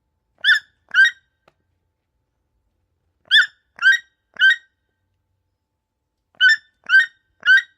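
Toucan calling: short, pitched croaking calls in groups, two, then three, then three more, about half a second apart within each group.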